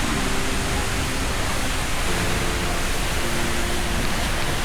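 Waterfall roar: a steady, dense rush of falling water with no breaks.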